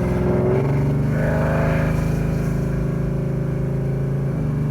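Rebuilt Chevy 396 big-block V8 pulling the car from inside the cabin: the engine note rises in the first second, holds steady, then steps down slightly about four seconds in.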